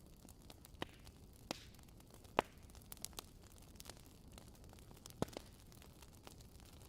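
Wood fire crackling softly: a low hiss with scattered sharp pops, the loudest a little over two seconds in and another about five seconds in.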